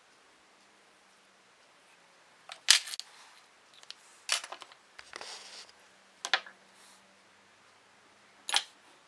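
Four sharp clicks, about two seconds apart, the first the loudest, with a short rasping noise between the second and third.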